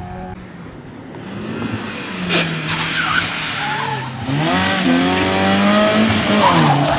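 Rally car approaching and passing at speed, its engine revving hard with the pitch climbing and dropping through gear changes, loudest in the second half, over a hiss of tyres on the road.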